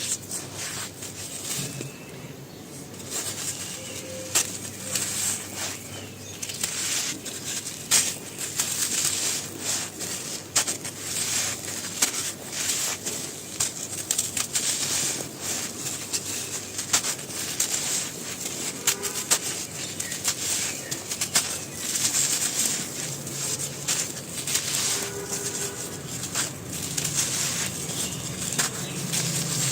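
Dry, brittle black grainy material crumbling and breaking apart, a dense irregular run of crackles and crunches with occasional sharper snaps.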